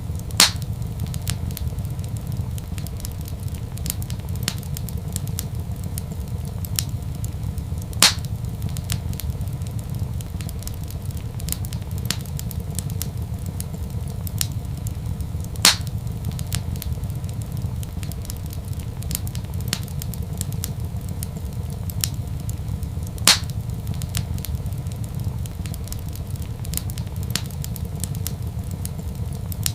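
Fireplace fire crackling, with a steady low rumble underneath. Small crackles run throughout, and a louder pop comes about every seven and a half seconds, four in all.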